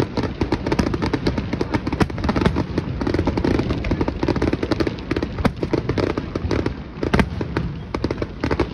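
Fireworks display: a rapid, continuous stream of overlapping bangs and crackles, with a few louder reports standing out.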